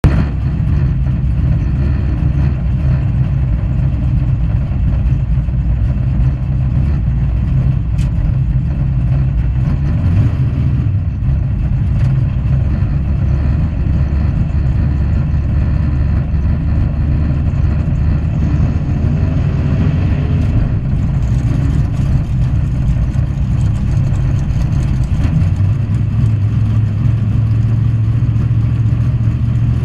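Drag race car's engine running steadily at idle, heard from inside the cockpit.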